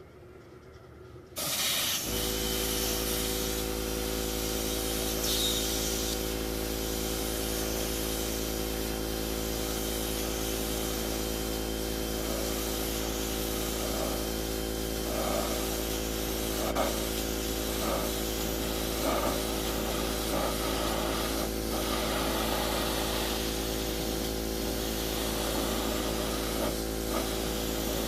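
Airbrush spraying black polyurethane primer: a steady hiss of air and paint that starts about a second in. A steady hum joins it a moment later, the airbrush's compressor running.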